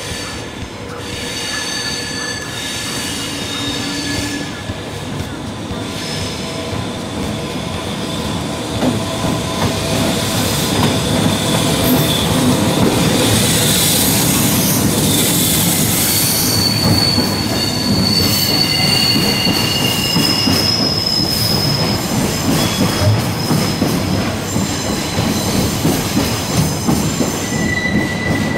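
Container freight train hauled by an electric locomotive rolling through yard curves and points, its steel wheels squealing in high, thin, shifting tones over the rumble and clatter of the wagons. It grows louder about nine seconds in as the train passes close by.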